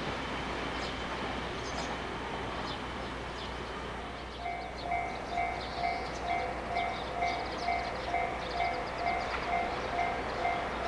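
The tail of a freight train passing through a station, with a steady rumbling that fades out about four seconds in. Then an electronic two-pitch warning tone begins, pulsing about twice a second: the alert for the next approaching train.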